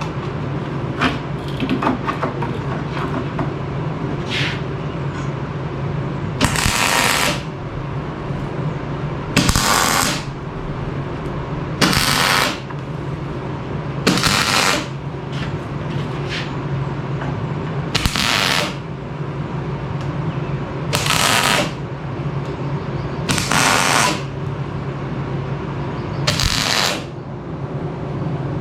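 Wire-feed welder laying tack welds on steel square tubing: eight short bursts of crackling arc, each under a second, about every two to three seconds, over a steady low hum.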